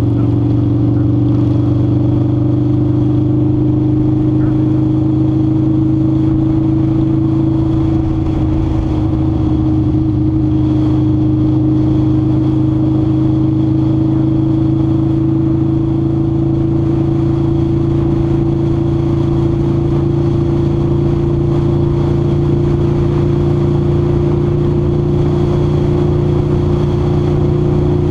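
Harley-Davidson V-Rod's liquid-cooled V-twin engine running steadily at cruising speed, its pitch creeping slightly higher over the stretch. Wind rumbles over the microphone.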